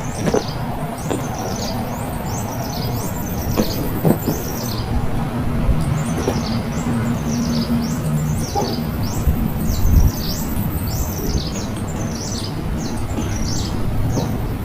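Small birds chirping: a rapid, continuous run of short, high chirps that slide downward, over a steady low rumble.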